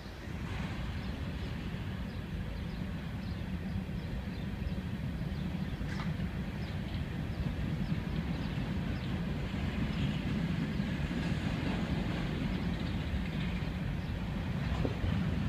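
Freight train of tank cars rolling past, a steady low rumble of wheels on rail with scattered light clicks and one sharper clank about six seconds in.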